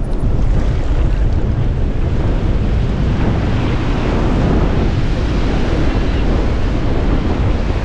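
Strong wind buffeting the microphone over the continuous wash of breaking surf, a steady loud rumble and hiss.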